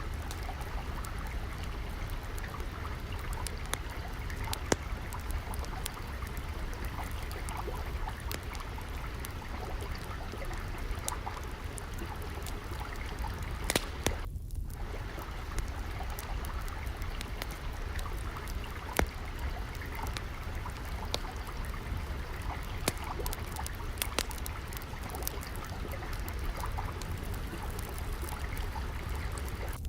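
Steady flowing water, trickling over a low rumble, mixed with a log fire crackling in scattered sharp pops.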